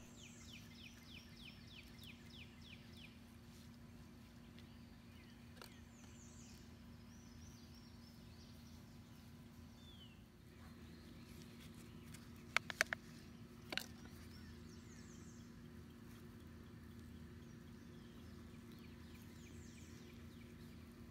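Faint birdsong: a songbird repeats runs of short, quick falling notes several times, over a steady low hum. A few sharp clicks come a little past halfway and are the loudest sounds.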